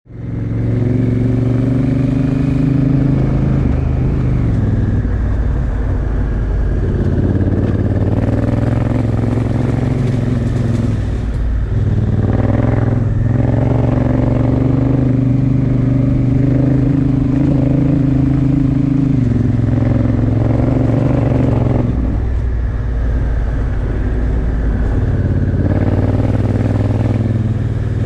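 Honda Africa Twin Adventure Sports' parallel-twin engine pulling under way, its note climbing and then dropping back with each throttle change or gear shift, several times over.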